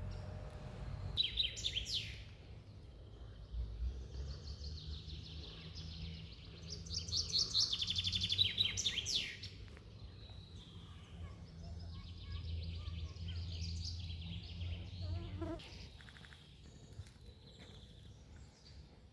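Songbirds singing, with short bursts of song near the start and a loud, fast trill about seven seconds in, over a steady low rumble.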